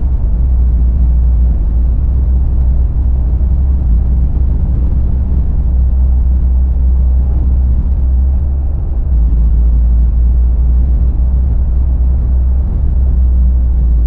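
Steady low rumble of a car on the road, road and engine noise droning without change.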